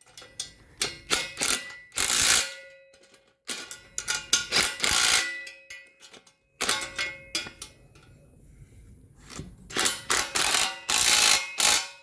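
Tow-bar mounting bolts being tightened with a tool, heard as several loud bursts of rapid mechanical rattling, each a second or two long, with short pauses between.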